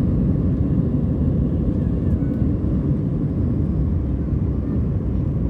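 Steady low roar of an Airbus A320-family airliner's jet engines and airflow, heard from inside the passenger cabin during the takeoff flight.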